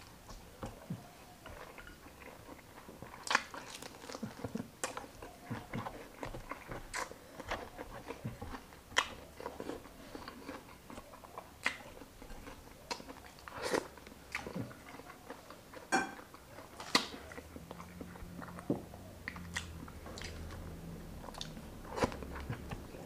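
Close-miked chewing and biting of grilled chicken with rice, with sharp crunches and wet mouth sounds at irregular intervals.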